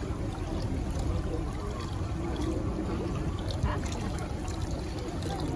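Hot spring water trickling and sloshing in a foot-soaking pool, a steady running-water noise, with a single knock about three and a half seconds in.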